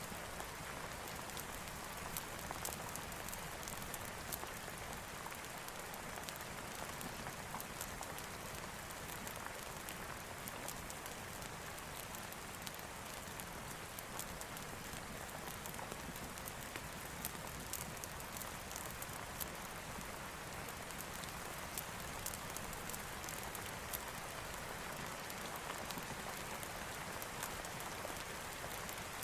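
Steady rainfall: an even hiss of rain, dotted with many small sharp ticks of drops.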